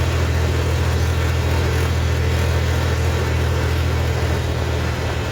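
Tractor's diesel engine running steadily, a loud, even low drone.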